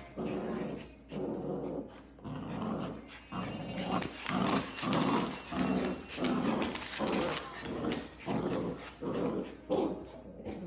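Dachshund puppies growling in short repeated bursts while playing tug-of-war, getting louder from about four seconds in.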